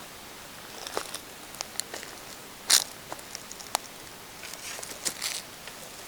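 Wood fire crackling in a fire pit: irregular sharp pops and snaps over a faint hiss, the loudest nearly three seconds in.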